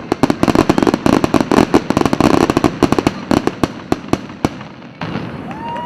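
Fireworks display: a rapid, dense barrage of bangs and crackles that thins out about four seconds in and cuts off abruptly near the end, where quieter audio with gliding tones begins.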